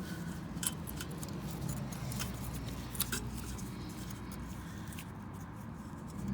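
Light metallic clinks and clicks, a few scattered ones, as a 10mm bolt and a small bracket are handled and set in place by hand, over a low steady hum.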